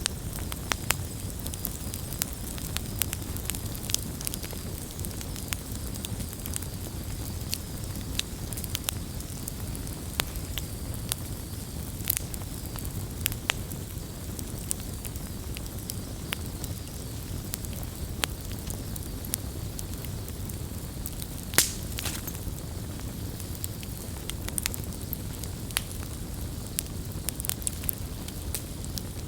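Campfire burning, with a steady low rumble and hiss and frequent sharp crackles and pops of burning wood. One louder pop comes a little under two thirds of the way through.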